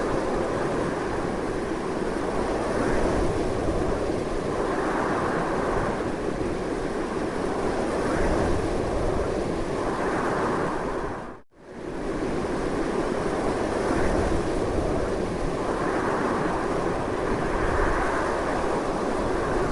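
Strong, continuous wind blowing in slow swells every couple of seconds. A little past halfway it cuts out almost completely for a moment, then comes straight back.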